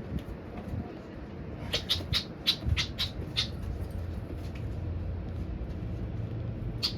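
A trapped starling giving a quick run of short, harsh calls about two seconds in and one more near the end, over a low steady hum.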